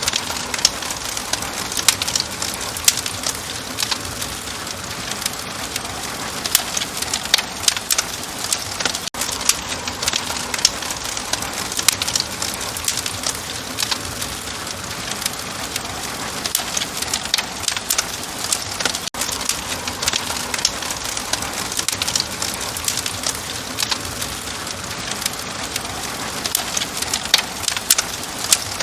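Fire crackling steadily: many small snaps and pops over a soft, even hiss.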